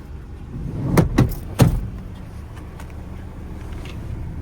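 Three quick sharp knocks about a second in, over a steady low rumble.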